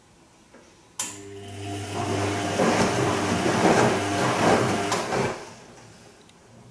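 Bosch Serie 2 VarioPerfect washing machine on its gentle Silk wash: the drum motor starts with a click and turns the drum for about four seconds, with a steady motor hum and the swish of water and laundry, then stops and fades out. This is the short turn-and-pause tumbling of a delicates cycle.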